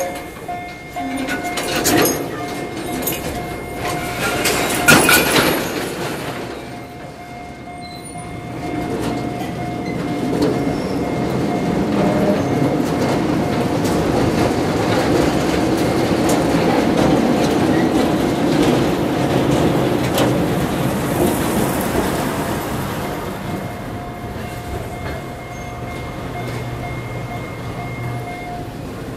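Narrow-gauge sugar-cane railway train of empty cane wagons rolling past, with sharp wheel and coupling clanks in the first few seconds, then a building rumble of wheels and diesel locomotive engine as the train moves on. A steady tone sounds throughout and stops near the end.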